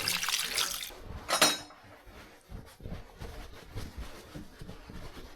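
Running water that stops about a second in, followed by one sharp metallic clink with a brief ring, then faint scattered knocks.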